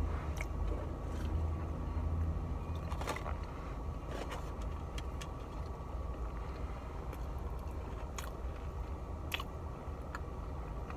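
A person chewing a fried chicken tender with wet mouth smacks and clicks scattered through. Under it runs the steady low hum of a car with its engine running.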